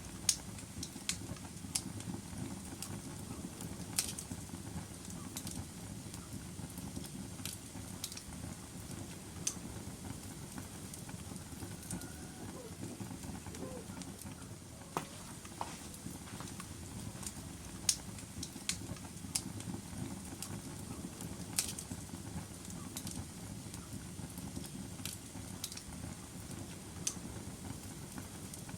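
Wood logs burning in a fireplace: a steady low rumble of flames with irregular sharp crackles and pops, loudest a few times (about 18 and 21 seconds in).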